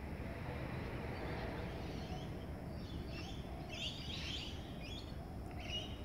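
A few short, high bird chirps clustered from about halfway, over a steady low rumble of background noise.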